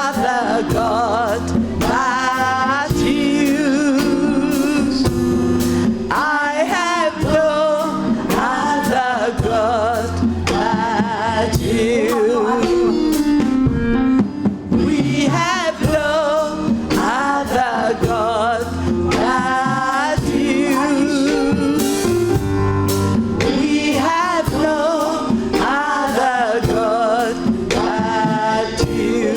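Gospel singers performing live, sung notes with a wavering vibrato over a band with a regular drum beat.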